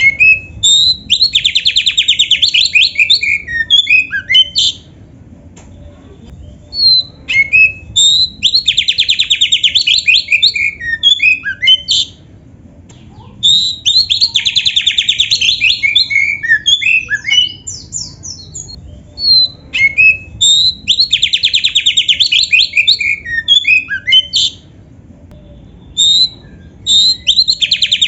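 Oriental magpie-robin (kacer) singing loudly, its song filled with canary-style phrases. The same kind of bout of clear whistled notes and a fast trill comes back about every six to seven seconds, with short pauses between.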